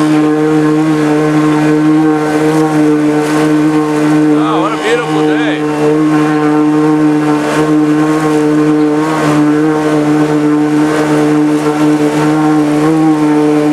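Engine of a homemade Subaru-based amphibious car-boat running steadily at a constant pitch while under way on the water.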